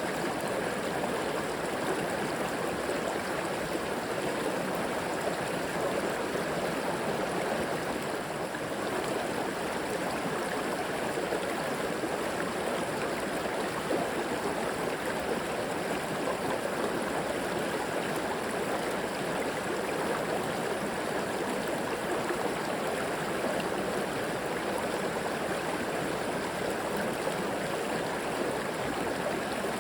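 River water flowing over rocks, a steady rushing with a gurgle in it.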